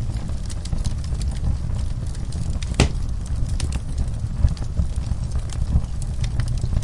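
Wood fire crackling in a fireplace: scattered small pops and one louder snap near the middle, over a steady low rumble.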